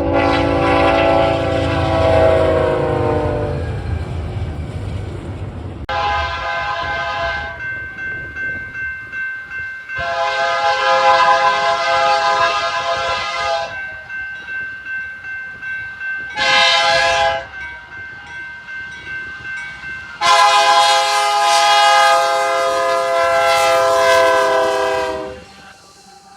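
Locomotive air horn sounding five separate chord-like blasts as a high-speed freight train passes: long blasts, then a short one, then a final long blast. Between blasts the train rumbles and the cars clatter rhythmically on the rails.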